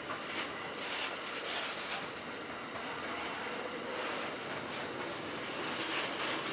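Train rolling past on the track: a steady rushing rolling noise, with brighter hissing pulses recurring about every half second as the wheels pass.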